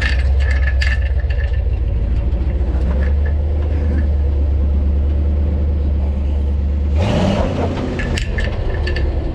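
Off-road truck engine running at a steady low speed, then revving up about seven seconds in.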